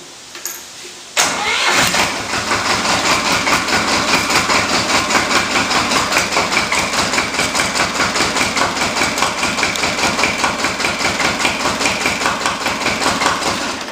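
An older diesel bucket loader's engine being cold-started with its glow plugs pre-heated: the starter engages about a second in and the engine catches almost at once, then runs on with an even pulsing beat.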